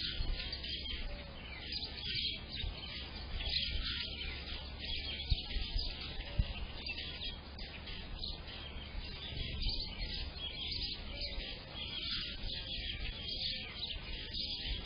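A chorus of several songbirds chirping and singing at once, a dense, high twittering that runs on without pause, over a low rumble. Two brief knocks come about halfway through.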